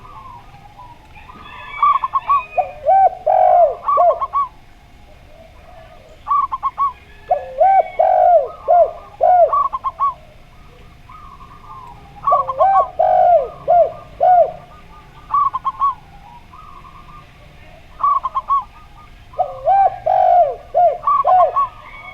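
A zebra dove and a spotted dove cooing together in four bouts of quick, bouncing coo notes, a higher voice and a lower voice overlapping within each bout.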